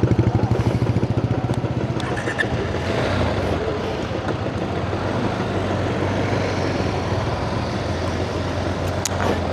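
Motorcycle engine idling with a fast low throb that fades over the first two seconds, giving way to a steady busy mix of traffic and crowd noise.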